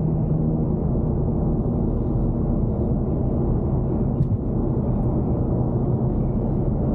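Steady low engine and road drone heard inside a moving car's cabin, with a short click about four seconds in.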